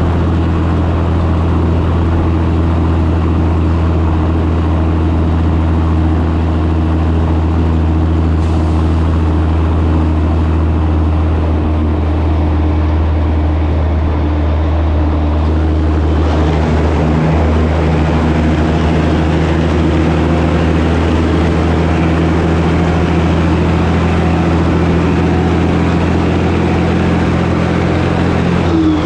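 1984 Peterbilt 362 cabover's diesel engine pulling steadily on the road, a constant low drone with the tyre and road noise behind it. Heard from outside, behind the cab.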